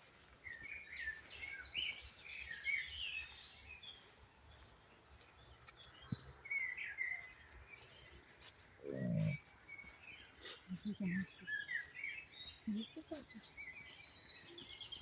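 Small woodland birds chirping and twittering in short, repeated calls. A brief low sound comes about nine seconds in.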